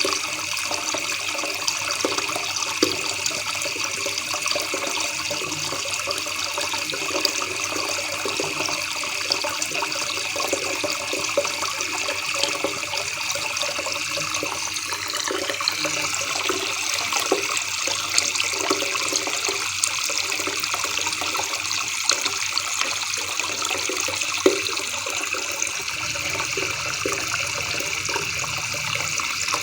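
River water babbling in a steady, unbroken flow with small splashes.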